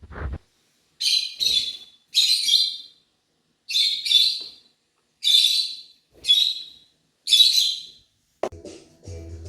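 Lovebirds calling: seven loud, separate chirping calls about a second apart. Music comes in near the end.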